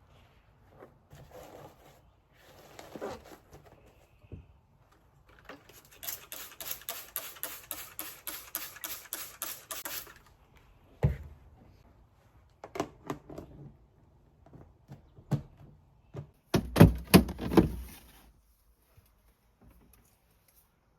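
A run of quick, even knocks, about four or five a second for several seconds, followed by scattered clicks and a few loud thuds.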